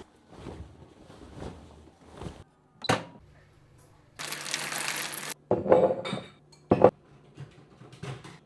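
Household objects being handled during cleaning: soft clatters and clinks, two sharp knocks, and about four seconds in a rushing hiss that lasts about a second.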